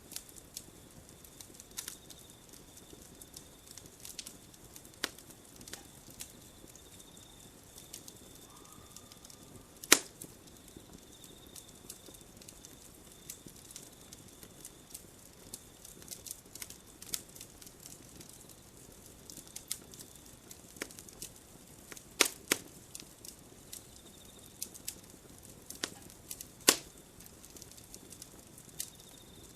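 Wood campfire crackling, with irregular sharp pops; the loudest snaps about ten seconds in and twice in the last third. A faint, steady, high-pitched chirring runs behind it, on and off.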